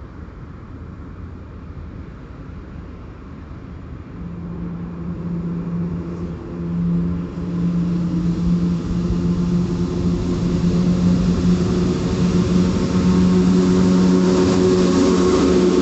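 A train approaching and growing steadily louder: a steady hum sets in about four seconds in over a low rumble, and the rush of wheels on rails swells near the end.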